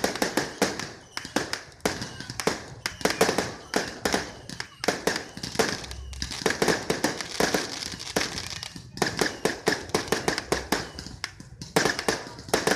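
Fireworks going off in dense strings of sharp cracks and pops, coming in several rapid volleys with brief lulls between them.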